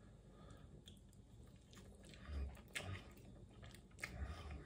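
A person chewing a mouthful of pan-fried beef burger: faint, soft mouth sounds with a few slightly louder chews about two and a half and four seconds in.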